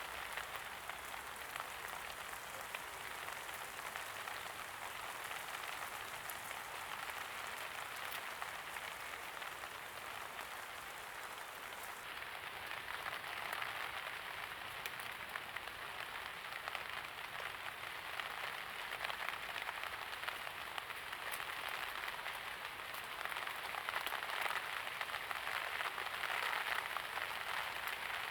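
Steady light rain falling and pattering on surfaces, with many small drop ticks, swelling a little near the end.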